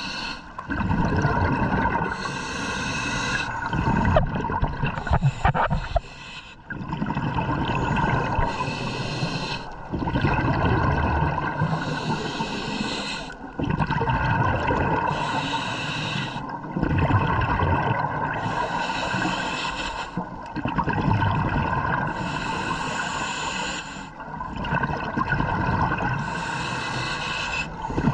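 Scuba diver breathing through a regulator underwater: a hiss on each inhale, then a burst of bubbling exhaust on each exhale, repeating about every three to four seconds.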